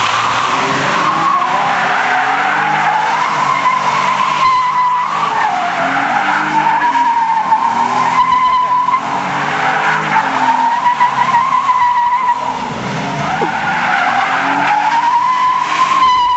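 Nissan 300ZX Twin Turbo doing a burnout: the rear tyres squeal continuously with a pitch that wavers up and down, over its twin-turbo V6 running at high revs. The sound is loud throughout and cuts off abruptly at the very end.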